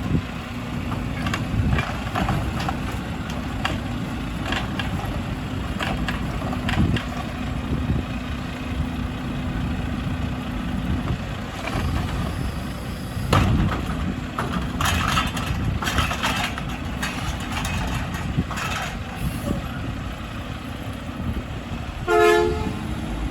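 Garbage truck engine running steadily, with scattered knocks and clatters from the truck at work and a short horn toot near the end.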